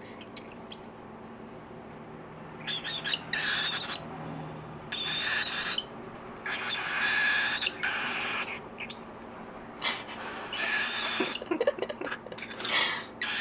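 Baby cockatiel's raspy, hissing food-begging calls, in about eight bursts of under a second each with short pauses, as it takes hand-feeding formula from a spoon.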